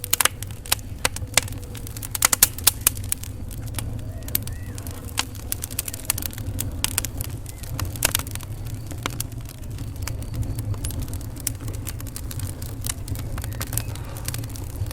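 Wood fire crackling in a fireplace: sharp pops and snaps at irregular intervals, thickest in the first few seconds, over a steady low rumble of the flames.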